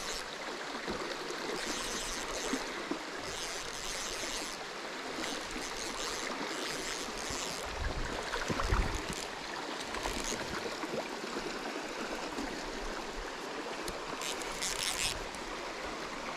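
River water running steadily, with brief splashy bursts now and then and a low thump about nine seconds in.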